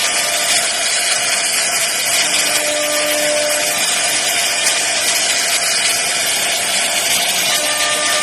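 CNC router spindle cutting wood, a steady loud whirring hiss with a faint whine that comes and goes.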